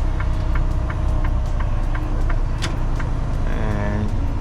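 Semi truck's diesel engine running steadily while driving, heard from inside the cab, with scattered light clicks and a brief tone near the end.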